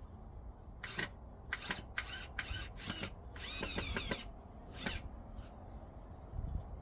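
A power tool run in about seven short bursts, with one longer run of under a second in the middle.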